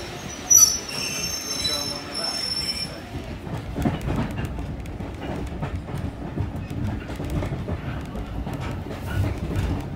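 A train's steel wheels squeal sharply on the rails for the first few seconds, with several high steady tones over a sudden loud start. From about three seconds in, the steady rumble and clatter of a moving railway carriage follows, as heard from inside, with irregular clicks of the wheels over the track.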